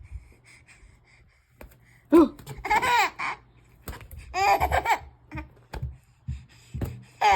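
Eight-month-old baby laughing in two bursts, about two seconds in and again about four and a half seconds in, followed by a few soft thumps.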